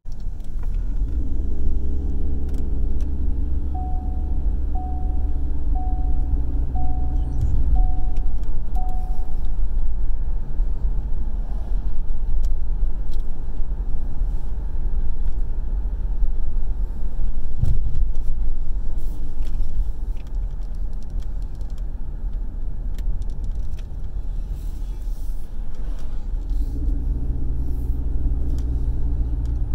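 Car running and driving, heard from inside the cabin: a steady low road and engine rumble that swells near the start and again near the end. Early on, a warning chime beeps about six times, once a second.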